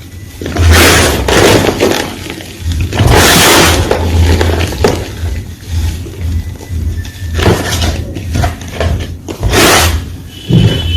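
Fresh white gym chalk being crunched and crushed. It goes in several loud, crumbly bursts about a second long, with smaller crackles between them, over a low hum.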